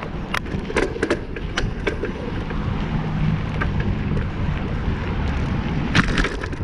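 Wind buffeting the microphone and road rumble while riding a bicycle, with several sharp clicks or rattles in the first two seconds and again near the end.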